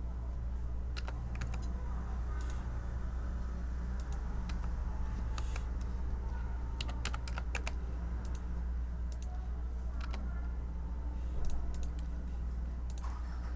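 Typing on a computer keyboard: irregular, scattered keystroke clicks with pauses between them, over a steady low hum.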